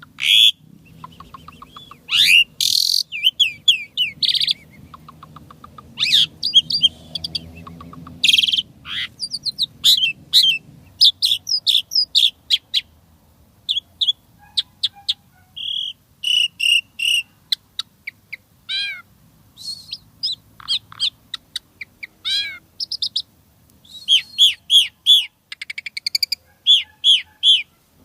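Asian pied starling (jalak suren) singing a varied string of short chattering notes, rapid repeated notes and falling whistles, with brief pauses between phrases.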